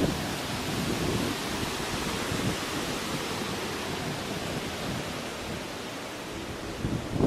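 Nor'easter storm noise: a steady rush of wind and water, with low rumbling gusts buffeting the microphone about a second in and again at the end.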